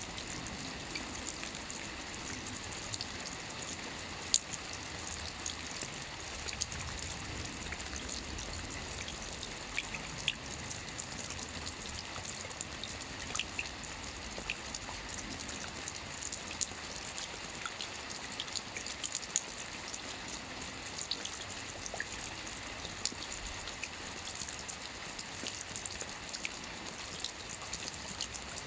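Steady rainfall: an even hiss of rain with many scattered sharp drop impacts, one noticeably louder about four seconds in.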